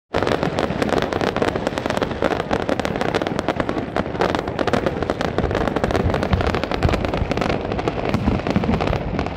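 Fireworks display: a dense, continuous barrage of rapid cracks and bangs with no let-up.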